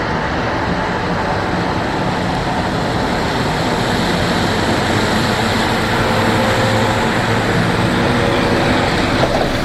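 Scania L94UB single-deck bus's diesel engine running steadily, with road and body noise.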